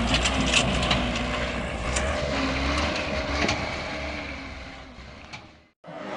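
Heavy truck running, a steady rumble with scattered rattles and knocks, fading and then cutting off near the end.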